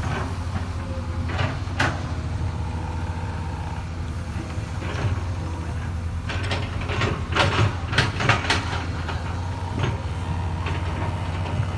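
Hydraulic excavator's diesel engine running steadily, with sharp knocks and clanks from the machine at work: one about two seconds in, a quick cluster in the middle, and another near the end.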